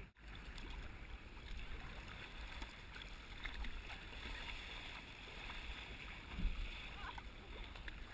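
Kayak on open water: faint paddle splashes and water lapping over a steady rush with low rumble, and a dull bump about six and a half seconds in.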